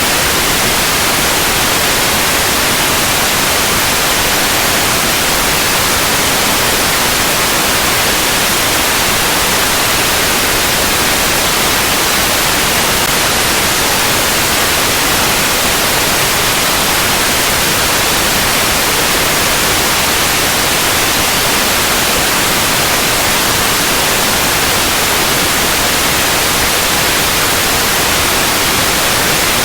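Steady white noise, an even, unbroken hiss with most of its energy in the high frequencies.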